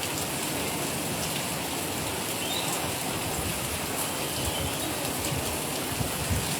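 Steady heavy rain falling and pattering on hard surfaces, with scattered drop ticks; the first monsoon rain of the season.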